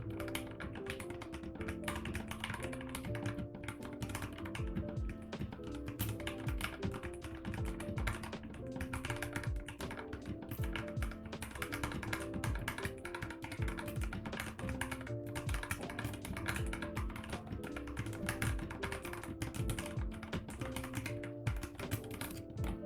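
Fast, continuous typing on a mechanical keyboard with Gateron Brown tactile switches lubed with Krytox 205g0, over lofi background music.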